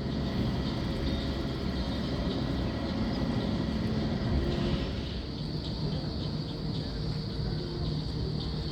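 A steady low engine-like rumble over outdoor background noise, easing slightly about five seconds in.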